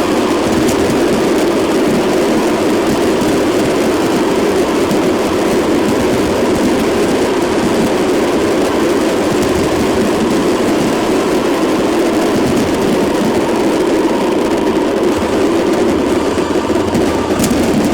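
Steady rumble of a moving vehicle, with no change in level or pitch.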